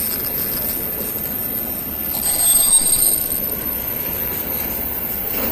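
Train wheels squealing on the rails over the steady rumble of a passing train, with a high squeal rising again about two seconds in and fading a second later.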